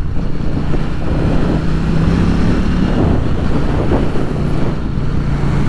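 KTM motorcycle engine running at a steady cruising speed, with wind and road noise; the engine note rises a little about two seconds in, then settles back.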